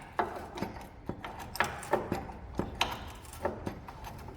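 Ratchet wrench clicking in uneven strokes, about two to three sharp clicks a second, as a front suspension bolt is turned.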